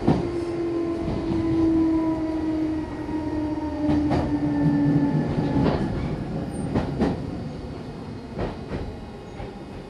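Meitetsu 6800-series electric train slowing down: the whine of its motors and gearing falls steadily in pitch while the wheels clack over rail joints, the clacks coming further apart, and the whole sound fades as the train nears a stop.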